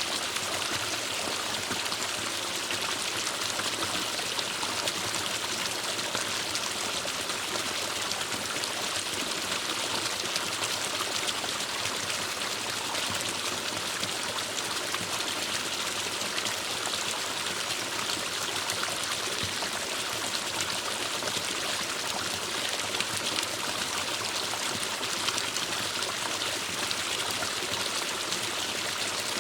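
A small forest stream running steadily over rocks, a constant rushing and trickling of water.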